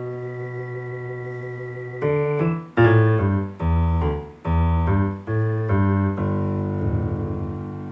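Piano-voiced keyboard playing an instrumental intro: a held chord dying away, then from about two seconds in a run of separately struck chords, the last one held and fading.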